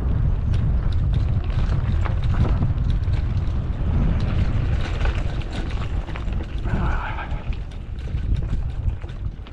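Wind buffeting the microphone during a mountain bike ride on a dirt road, a steady low rumble with scattered clicks and rattles from the bike.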